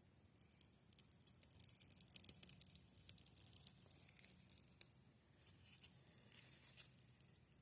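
Faint, irregular crackling and sizzling of a campfire with food cooking on a grill over it: many fine crackles over a steady high hiss.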